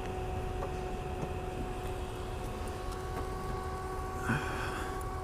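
A steady hum made of two held tones over a faint low rumble; a third, higher tone joins about halfway through, and a short soft sound comes near the end.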